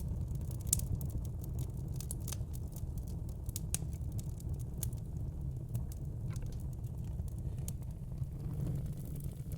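Wood fire in a fire pit crackling, with frequent irregular sharp pops and snaps over a steady low rumble.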